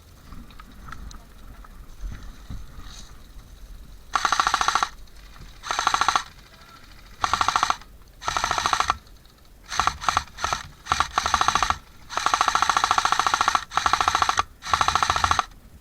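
Airsoft gun firing on full auto in a string of short bursts, each a rapid rattle of shots. The bursts start about four seconds in and come one after another to near the end.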